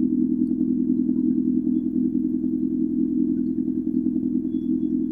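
Turbocharged Mazda Miata's four-cylinder engine running steadily at a constant speed, with an even pulse. The car has just been started on a new E85 setup with 1000cc injectors and a MegaSquirt standalone ECU, and is being tuned.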